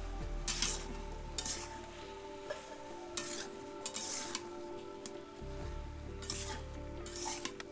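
Pumpkin frying in a pan, sizzling, while a spatula stirs and scrapes it in irregular strokes about once a second. Soft background music runs underneath.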